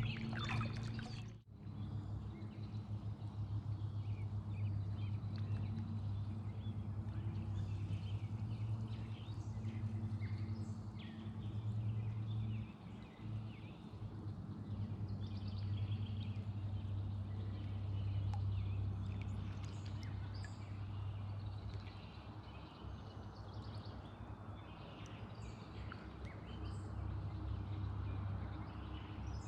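Outdoor ambience: a steady low rumble with scattered bird calls over it, and a brief dropout about a second and a half in.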